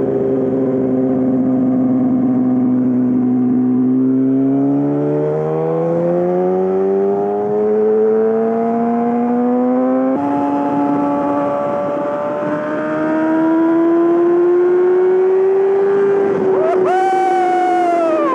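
Yamaha R6 inline-four with a full M4 exhaust system accelerating: the engine note holds steady for a few seconds, then climbs through a gear, drops at an upshift about ten seconds in, and climbs again more slowly. Near the end a brief, higher sound rises and falls over it.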